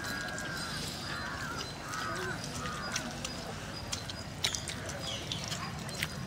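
A bird calling repeatedly in short arched calls, several in the first three seconds and a few more later. Under it are scattered sharp clicks and rustles as hands work noodles on banana leaves.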